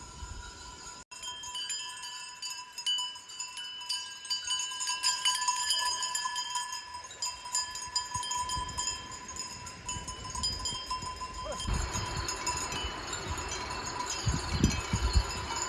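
Bells worn by a grazing flock of sheep, many of them clinking and ringing together in overlapping metallic tones, with a few low thuds near the end.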